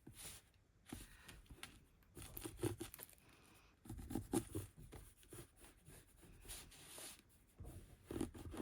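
Paper and craft supplies handled on a work table: scattered rustles, clicks and a few soft knocks, busiest around three and four seconds in and again near the end.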